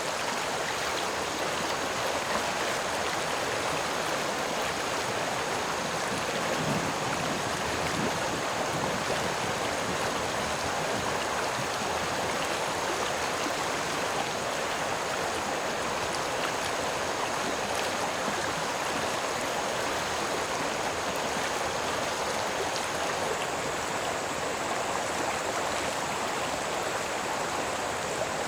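Steady, unbroken rush of running water, like a flowing stream.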